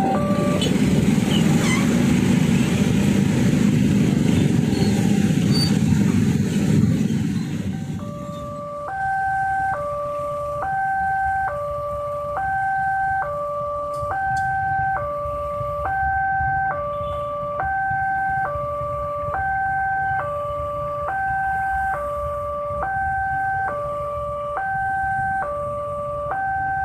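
A train rumbling over a railway level crossing for about the first eight seconds, then dying away, leaving the crossing's electronic warning alarm alone: two pairs of tones alternating, switching about once a second, which signals that the crossing is still closed.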